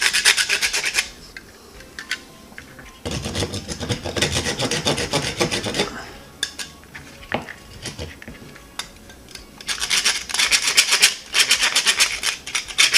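Wood rasp filing a nylon Benebone wishbone dog chew in quick back-and-forth scraping strokes, smoothing down sharp edges left by chewing. It comes in three spells of rapid strokes, separated by short pauses with a few light knocks.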